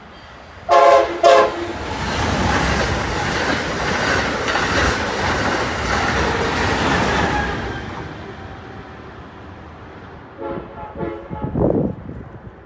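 Amtrak Acela high-speed train sounding two short horn blasts as it approaches, then passing at speed with a steady wash of wheel and air noise that fades after about eight seconds. Several fainter short horn blasts sound again near the end.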